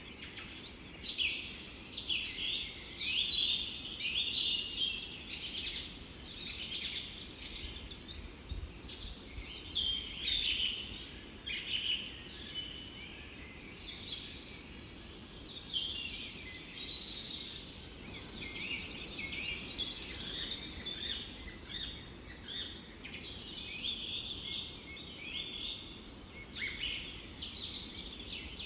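Small songbirds singing together, a dense chorus of overlapping chirps and trills, over a faint low rumble of background noise.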